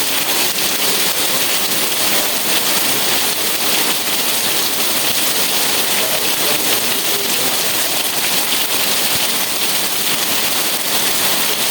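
Steady rain falling, a dense even hiss that neither builds nor fades.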